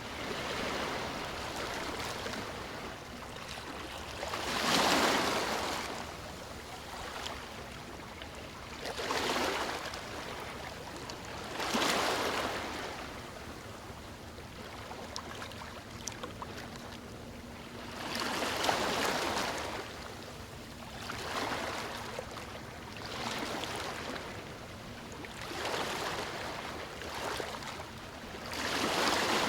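Sea waves breaking and washing up a shore, swelling in irregular surges every few seconds over a constant wash of surf.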